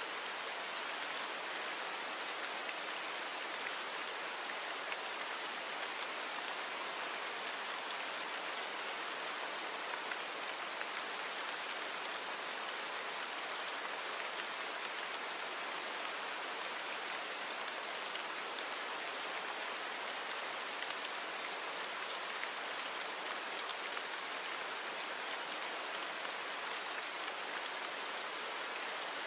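Steady rain falling, an even hiss with fine scattered drop patter and no change in intensity.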